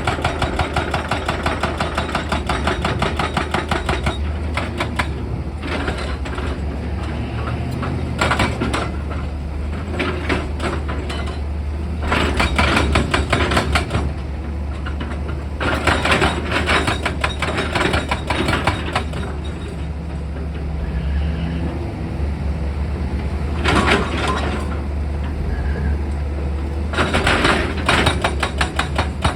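Heavy excavator's diesel engine running steadily, with repeated spells of rapid rattling clatter lasting a few seconds each.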